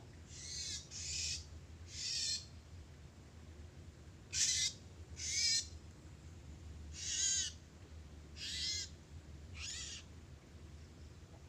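A bird calling repeatedly: about eight short, high calls, each under half a second, spaced one to two seconds apart.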